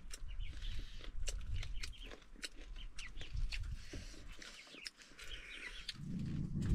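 Domestic chickens clucking, amid many short sharp clicks.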